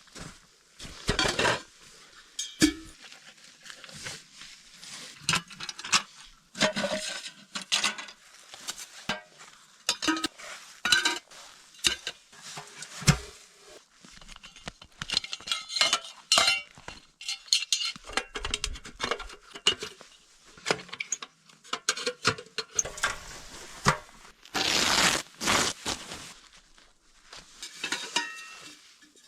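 Metal cookware and utensils being handled: irregular clinks, knocks and scrapes of pots, lids and cutlery, with rustling between them.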